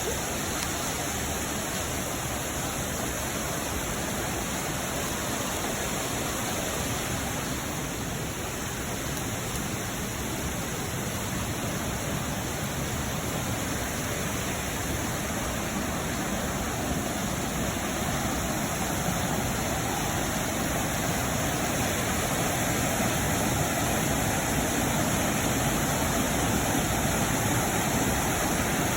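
Steady rushing of a fast-flowing creek and its waterfalls, running high after heavy rain, growing a little louder in the second half.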